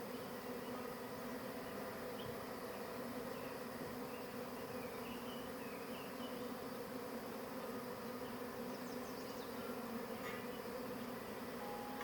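Steady hum of a large honey bee swarm, thousands of bees buzzing as they crawl over a box and funnel into its entrance.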